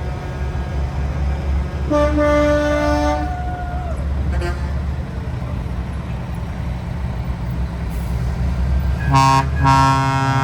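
Semi-truck air horns blasting over the low rumble of diesel truck engines: one long blast about two seconds in, then two blasts in quick succession near the end.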